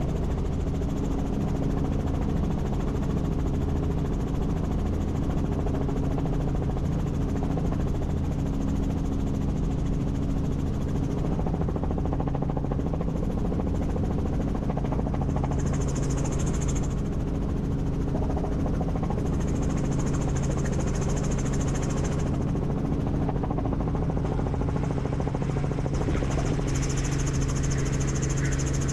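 Helicopter in flight, its turbine engine and rotors running steadily with a constant low hum. A high hiss comes and goes three times in the second half.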